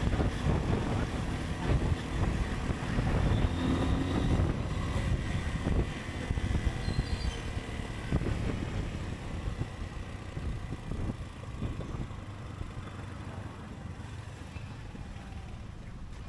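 Motorcycle engine running with road and wind noise, heard from on board the bike, growing quieter over the second half.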